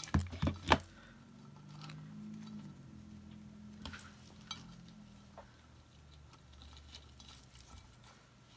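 Small hard craft pieces knocking and clattering on a work table: a quick cluster of sharp knocks in the first second, then scattered light clicks as they are handled.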